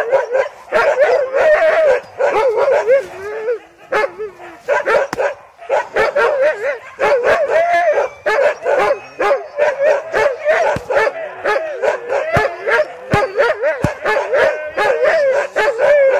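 Sled dogs yipping, whining and howling together, several at once with barely a break: eager, impatient dogs waiting to be fed.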